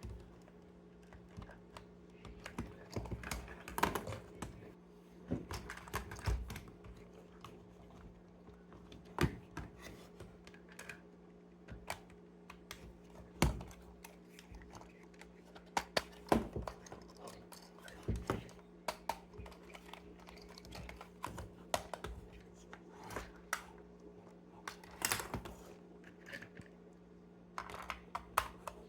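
Irregular clicks and taps of hands handling plastic toy parts and packaging, over a steady low hum.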